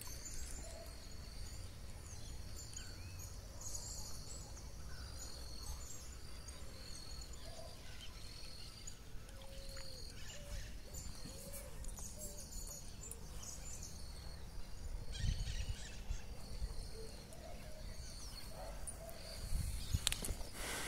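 Outdoor lakeside ambience: a bird repeats a short high call about once a second, with other birds chirping faintly, over a low rumble. A few muffled thumps come near the end.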